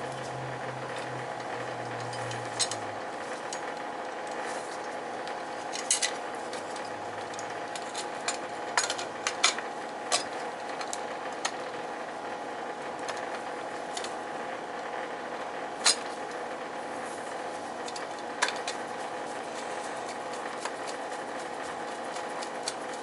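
Scattered sharp metal clicks and clinks of hand tools and wiring parts being handled during control-wiring work on an oil boiler, over a steady hum.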